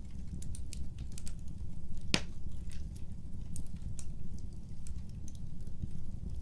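Wood fire burning with a steady low rumble and scattered crackles, and one sharper pop about two seconds in.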